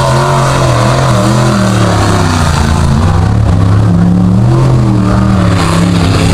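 Mud bog pickup truck's engine running hard under throttle, loud and continuous, its pitch rising and falling repeatedly as the revs swing up and down.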